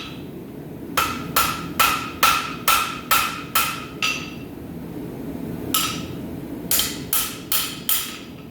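Blacksmith's rounding hammer striking hot steel on an anvil, about two to three blows a second, each with a short ring: a run of about seven blows, a pause of under two seconds, one blow, then four more in quick succession. The blows are forging the center vein of a weeping-heart door-pull end.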